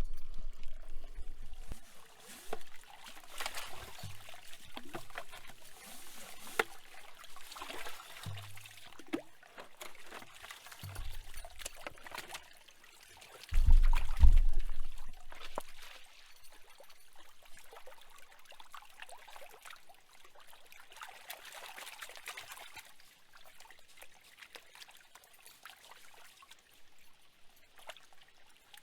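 Shallow mountain stream trickling and splashing, with scattered small clicks and knocks. Several brief low rumbles on the microphone, the loudest about halfway through, which is the loudest moment; the water is fainter afterwards.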